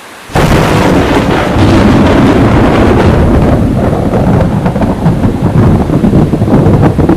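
A loud thunderclap breaks in suddenly about a third of a second in, then rolls on with a crackling rumble over heavy rain.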